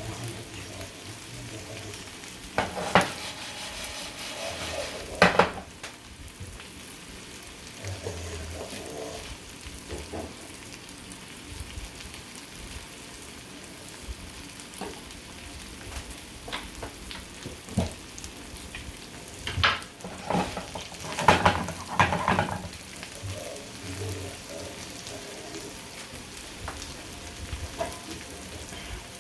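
Food sizzling steadily in hot oil in a pan, with a few sharp knocks and clatters of a utensil against the pan, twice early on and in a cluster about two-thirds of the way through.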